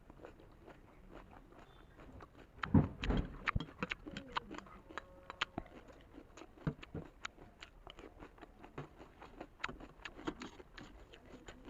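Raw cabbage salad being bitten and chewed: a loud crunchy bite about three seconds in, then a run of many small crisp crunches.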